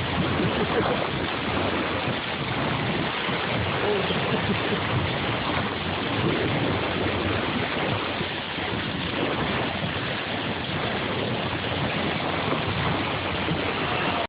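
Steady rush of water along the hull and wake of a moving boat, an even hiss without any clear engine tone.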